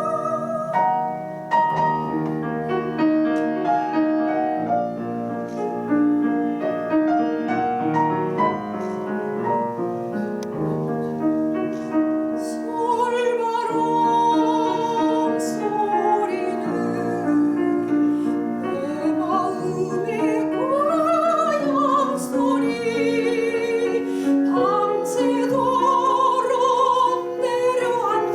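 Piano playing the accompaniment of a Korean art song alone for the first part, then a soprano comes in about halfway through, singing with wide vibrato over the piano.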